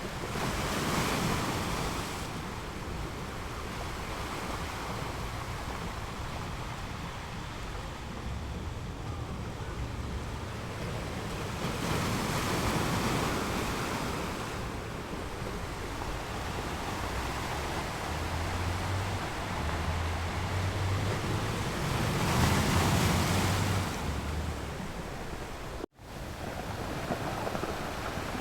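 Ocean waves breaking on the shore: three surges of surf about ten seconds apart over a steady wash of water. Near the end the sound cuts out for an instant and comes straight back.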